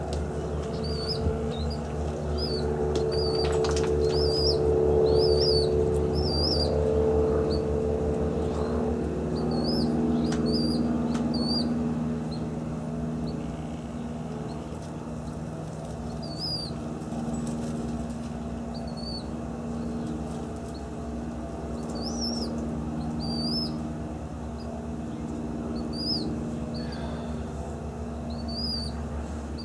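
A small bird chirping over and over, short high rising-and-falling chirps in quick runs near the start and scattered ones later, over a steady low hum.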